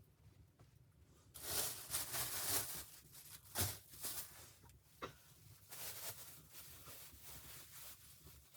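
Rustling and scraping handling noises, with two sharp knocks near the middle.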